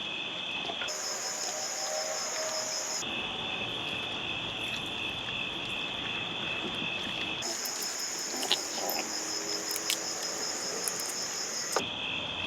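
Steady, finely pulsing trill of crickets in a night-time chorus. The chorus jumps abruptly between a lower and a higher pitch four times, and a few faint clicks come in the second half.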